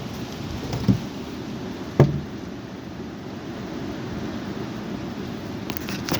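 High wind rushing and buffeting the microphone as a steady low rumble, with two sharp knocks about one and two seconds in.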